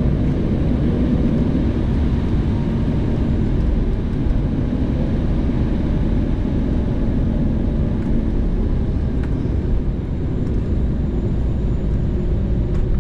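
Embraer 190 cabin noise: the steady low roar of its General Electric CF34-10E turbofans and airflow, with a faint steady hum underneath.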